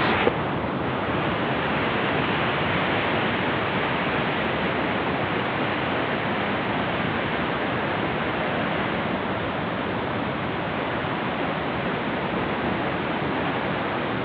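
Waterfall pouring in a steady, unbroken rush, the falls running with a strong, heavy flow.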